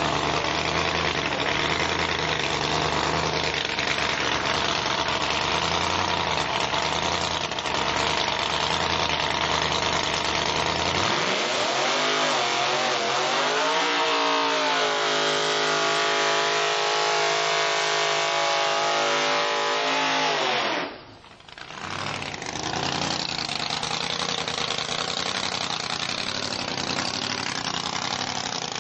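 Supercharged drag-racing car engines running loud and rough. About a third of the way in, one engine revs up and then holds a steady pitch for several seconds. The sound drops out abruptly about two-thirds of the way through before engine noise resumes.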